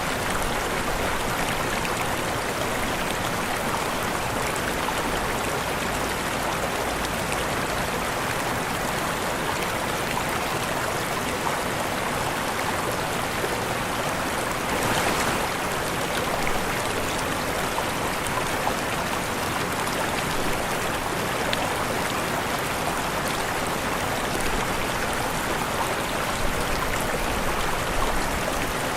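Waterfall rushing as a steady, unbroken wash of water noise, with a slight swell about halfway through.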